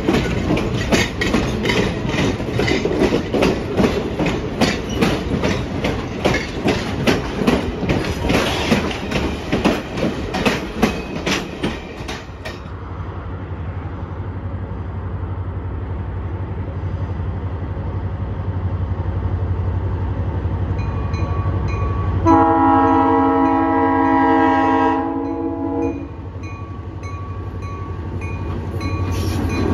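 Passenger coaches rolling past close by, their wheels clicking over the rail joints in a quick, steady rhythm. The sound then changes to a diesel locomotive approaching from a distance with a low, steady engine hum. About three-quarters of the way through it sounds one long horn blast of several notes together.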